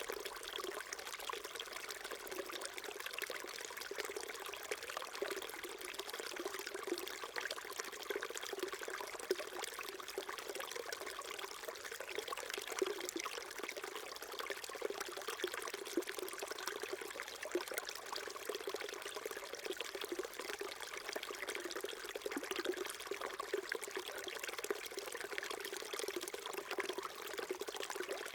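Small stream babbling and trickling over stones, a steady flow of water with many small splashes.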